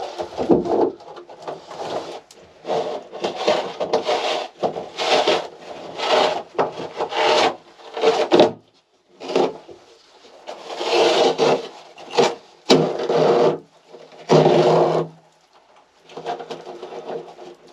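Wood rasping and scraping in irregular strokes, roughly one to two a second, as an MDF panel is worked out of a small boat's anchor locker. There are short pauses about halfway through and near the end.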